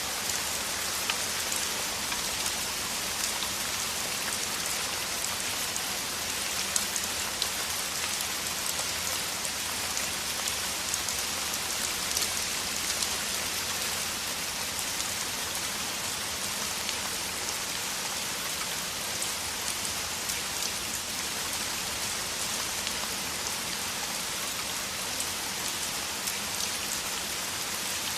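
Downpour of rain falling steadily, a dense even hiss with individual drops ticking through it.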